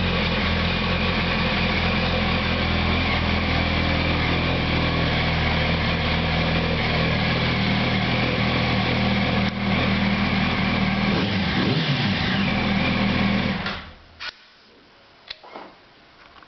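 2008 Yamaha YZF-R1's inline-four engine idling steadily through its standard exhaust, then shut off with a few seconds left; a few faint clicks follow.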